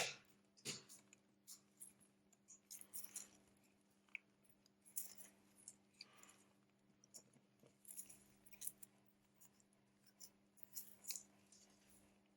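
Faint, scattered clicks and taps of small repair tools handling phone parts, over a low steady hum.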